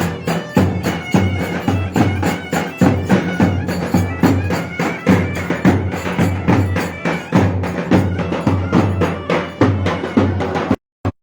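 Traditional Turkish folk dance tune (oyun havası) played on a davul drum with a reedy wind instrument holding a melody over steady, evenly spaced drum beats. The music cuts off abruptly near the end.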